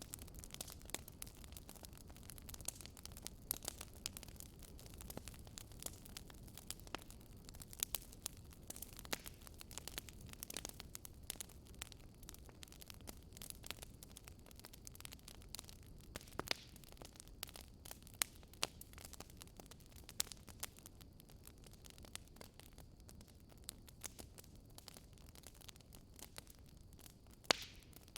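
Wood fire crackling: irregular sharp snaps and pops over a low, steady rumble of burning, with one louder pop near the end.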